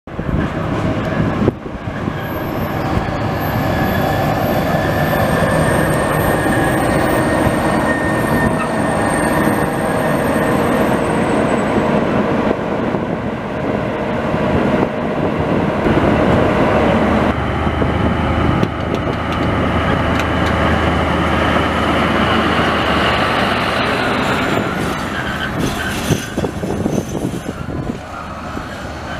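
A passenger train arriving behind a MÁV class M41 diesel-hydraulic locomotive: the diesel engine running and the coaches' wheels rolling past at low speed, with steady high squealing tones. About seventeen seconds in the sound changes to a steady low engine hum with a higher whine, easing off near the end.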